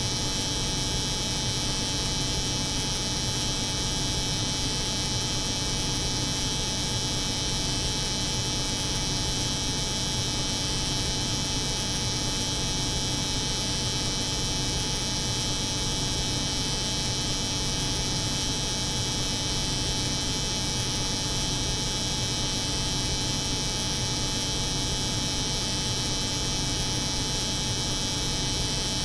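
Steady layered noise: the hum of a cold room's refrigeration mixed with the buzz of an electric hair clipper, unchanging throughout.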